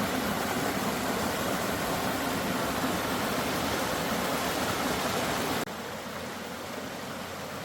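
Running water of a stream, a steady rushing hiss. It drops suddenly to a quieter level about five and a half seconds in.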